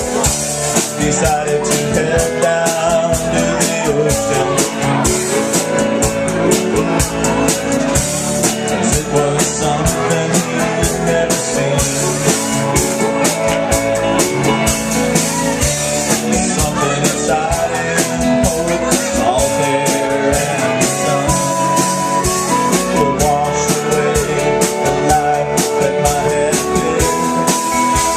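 Rock band playing a song live, loud and unbroken: drum kit, guitar and singing.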